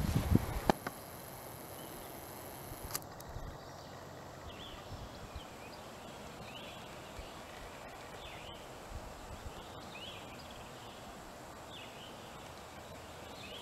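Quiet woodland ambience: a steady faint hiss with small birds giving short chirps every second or so. A few low knocks in the first second.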